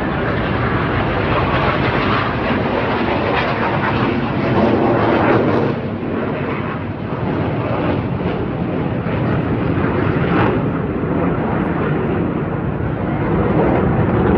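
Jet noise from T-50B aerobatic jets flying past: a loud, steady rushing sound that eases briefly about six seconds in and swells again near the end.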